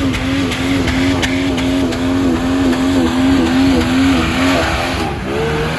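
Radio-controlled off-road vehicle's motor running at a steady, slightly wavering pitch, then revving up sharply near the end.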